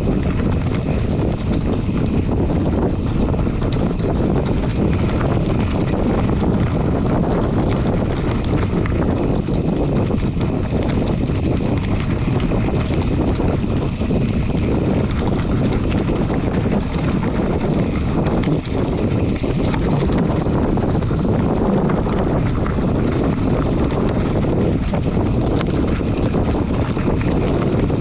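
Wind buffeting a GoPro Hero8's microphone while a mountain bike descends a steep dirt trail, with the tyres rumbling over the ground; a loud, steady rush with no letup.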